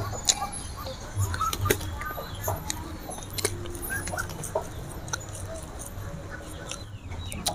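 Close-up eating sounds from chewing crispy fried round tofu balls (tahu bulat): a string of short, irregular clicks and crackles.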